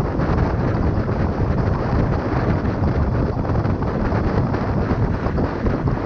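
Steady wind buffeting on the microphone of a moving motorcycle, with vehicle and road noise underneath.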